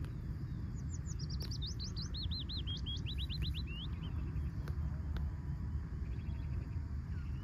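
A songbird sings one song: a fast run of repeated notes that steps down in pitch over about three seconds. A few faint chirps follow, all over a steady low rumble.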